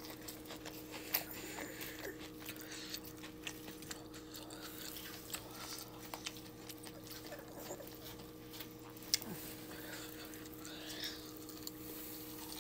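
A person chewing homemade fried onion rings with the mouth close to the microphone: scattered soft wet clicks and smacks, over a steady background hum.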